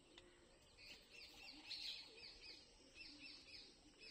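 Faint bird chirping: many short, quickly repeated descending notes, starting about a second in.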